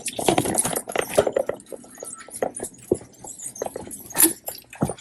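A boxer dog's claws clicking and tapping irregularly on a hard floor as it walks.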